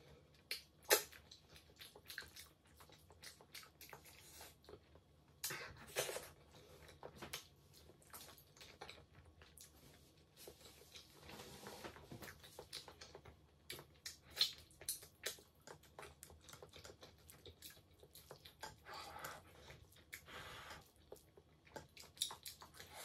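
Close-miked chewing of rice, pasta and stew: soft, wet mouth sounds with irregular small clicks.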